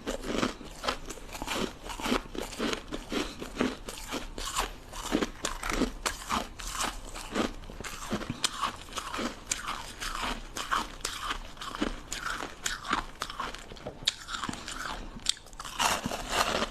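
Ice sticks being bitten and chewed close to the microphone: a steady run of crisp crunches, two or three a second.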